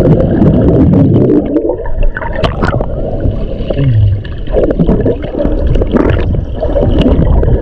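Sea water sloshing and gurgling around a waterproof action camera at the surface, loud and muffled, surging irregularly.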